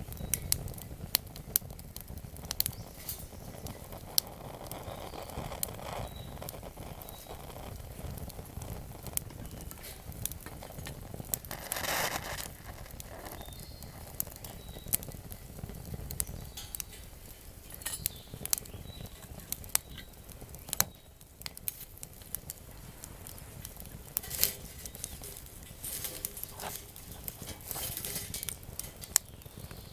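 Wood campfire burning: crackling with many sharp, irregular pops and snaps over a low steady rumble, with a couple of louder rushes of noise about halfway through and near the end.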